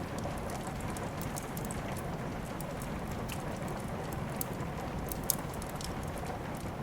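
Steady rain hiss mixed with a wood fire crackling in a fireplace, with frequent small sharp pops and one louder pop about five seconds in.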